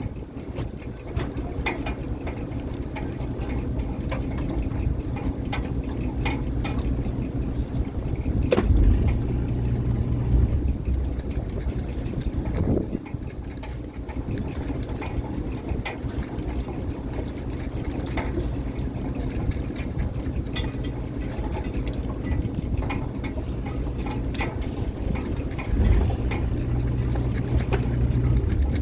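Fishing boat's engine running steadily, with water splashing and scattered clicks and knocks of gear. The low hum swells twice, about nine seconds in and near the end.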